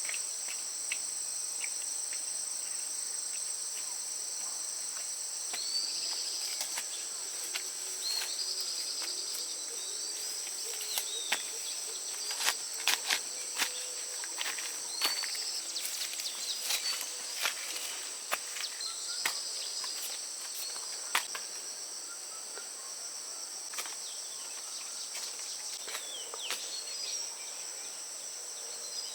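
Steady high-pitched insect chorus of cicadas or crickets, with scattered clicks and rustles and a few short chirps over it.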